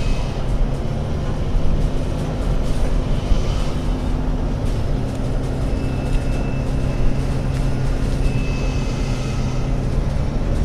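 ADL Enviro500 MMC Euro 6 double-decker bus engine running at a steady speed, with a broad rumble and hiss and a few faint short whistles higher up.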